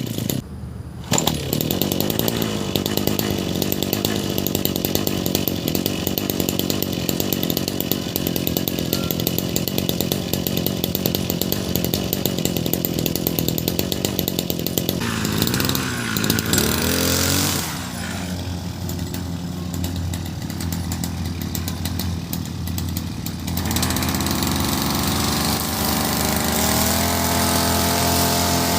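Nakamura TB33 two-stroke brush cutter running at working revs while cutting grass. The engine note dips briefly just after the start, wavers and falls around the middle, then picks up steady again toward the end.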